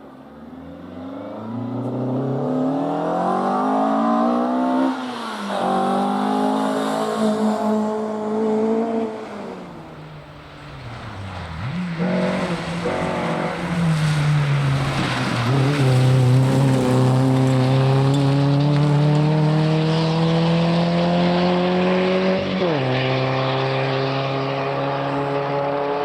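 Rally car engine pulling hard through the gears on a forest stage: the pitch climbs, drops at an upshift about five seconds in, climbs again, falls away as the driver lifts around ten seconds, then climbs in a long pull with another upshift near the end.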